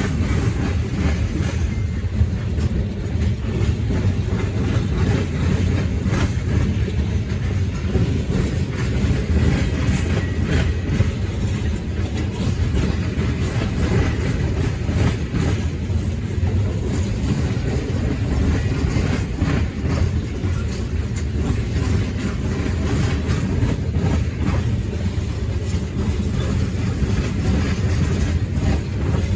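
Freight train cars rolling past on the rails, a steady low rumble with faint, scattered wheel clicks.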